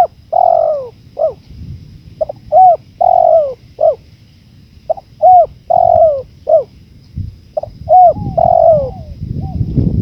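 Spotted dove (tekukur) cooing: four phrases of repeated, falling coo notes about two and a half seconds apart. A low wind rumble runs underneath and grows stronger near the end.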